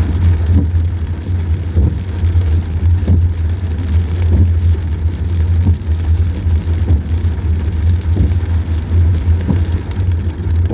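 Car driving in heavy rain, heard from a dash cam inside the cabin: a steady low drone of the car on the road under a constant hiss of rain, with scattered taps of raindrops hitting the car.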